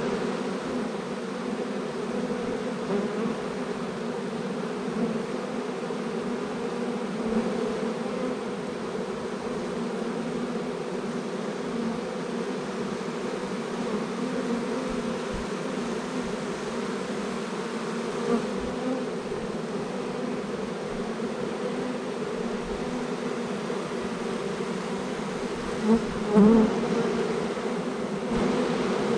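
Steady buzzing hum of a honey bee swarm massed around a hive entrance, with many bees in flight close to the microphone. The hum swells briefly a couple of times, most clearly about 26 seconds in.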